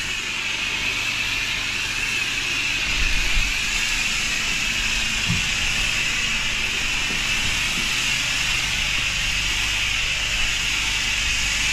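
Patio cleaning treatment being sprayed onto paving: a steady hiss of spray over a low engine hum.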